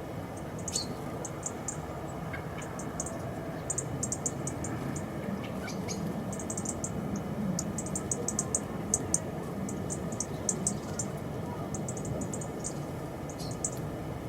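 Small birds giving short, very high chips in quick irregular clusters over a steady background hiss.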